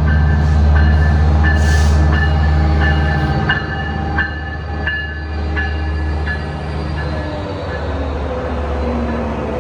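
Diesel passenger train locomotive running, its deep engine rumble easing off about three and a half seconds in, with a bell striking about every 0.7 s until roughly six seconds in.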